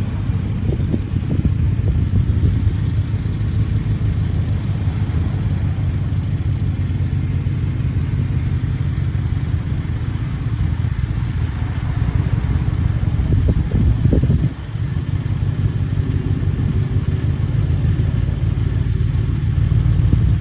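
Exhaust of a 2017 Audi S6's twin-turbo V8, with the mid-muffler and resonators deleted, running with a deep, steady note. It briefly drops about fourteen seconds in.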